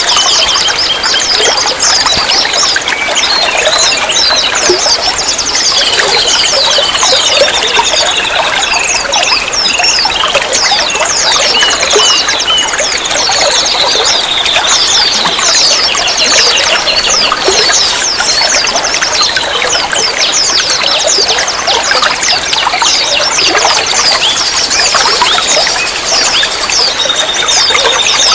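Running water trickling and splashing, played as a water-therapy track for caged songbirds. Rapid high chirps and a few short held whistles sound over the water throughout.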